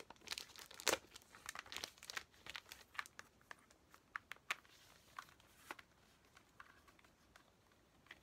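Plastic wrapping on a CD album being crinkled and torn while it is opened: irregular sharp crackles, thickest in the first few seconds with a louder crackle about a second in, thinning out towards the end.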